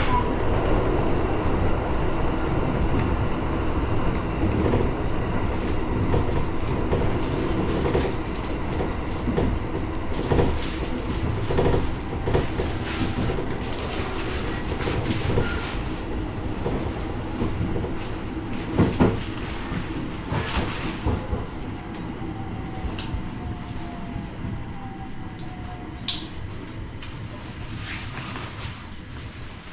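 701-series electric train heard from inside the driver's cab: running noise and clicks of the wheels over rail joints and points, easing off as the train brakes into a station. In the second half a falling whine sounds as it slows, with a few brief high squeaks near the end.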